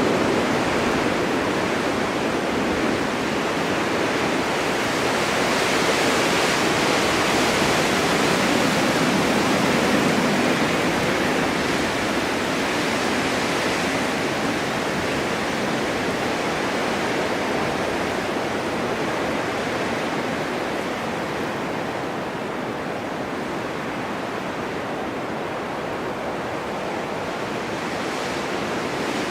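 Snowstorm wind, a steady rushing that swells slightly and eases again.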